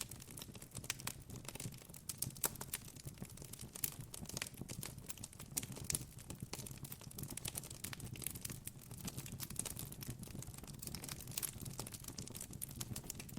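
Campfire crackling: irregular sharp pops and snaps over a low steady background noise, with a couple of louder pops about two and a half and six seconds in.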